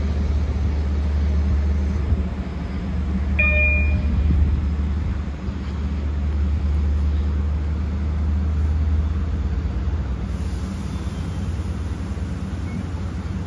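Steady low rumble of a diesel-hauled bi-level commuter train at the platform, easing a little near the end. One short high beep sounds about three and a half seconds in.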